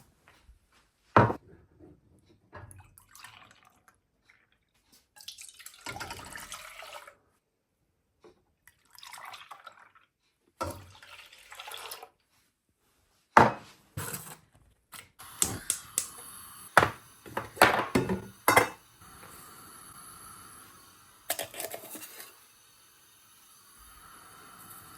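Short, irregular bursts of water dripping and splashing, with scattered sharp clicks and knocks and silent gaps between them.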